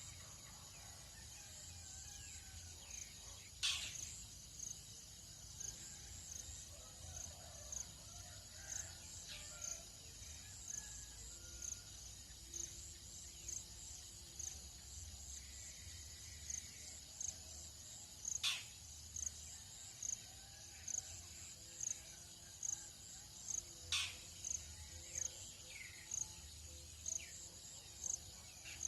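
Tropical dawn insect chorus: a high chirp repeating about twice a second over a steady high-pitched insect hiss. Faint bird calls are scattered through it, and three brief sharp calls stand out, near the start, in the middle and about two-thirds through.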